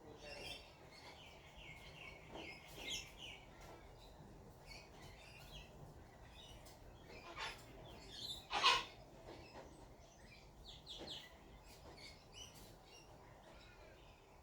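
Wild birds chirping and calling, with short scattered chirps and trills and one louder, harsher call a little past the middle.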